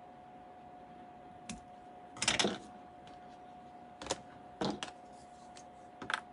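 Small taps and clicks of paper-craft pieces and tools being handled and set down on a craft table, the loudest a short rustling cluster about two seconds in. A faint steady hum runs underneath.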